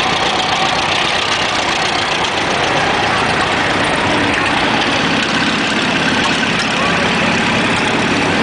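Tractor engines running at idle, steady, with people talking over them.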